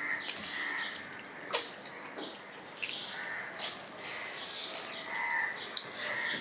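Eating sounds of a man chewing rice and chicken curry eaten by hand, with scattered wet mouth clicks and smacks. A few short, faint high-pitched calls sound in the background.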